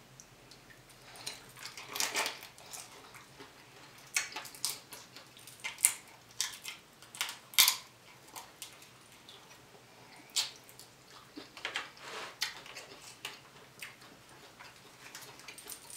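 Close-up mouth sounds of eating cheesy ramen noodles: wet chewing and lip-smacking, heard as an irregular run of short, sharp clicks and smacks.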